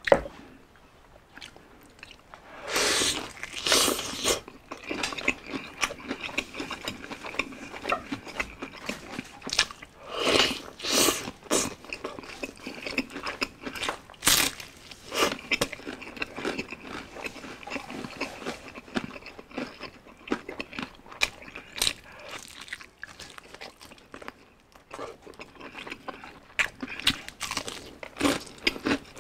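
Biting into and chewing gravy-dipped crispy fried chicken: crunching of the breaded skin and chewing in irregular bursts, with the loudest bites about three, ten and fourteen seconds in.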